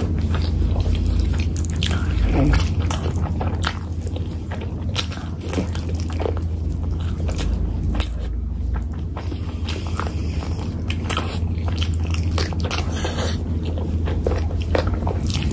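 Close-miked wet chewing and smacking of a mouthful of chicken curry and rice eaten by hand, with many short sticky clicks of lips and fingers, over a steady low hum.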